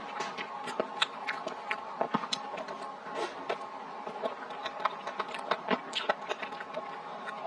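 Close-miked chewing and lip smacking as a woman bites and eats sauce-coated skewered food: many small wet clicks at irregular intervals, over a faint steady hum.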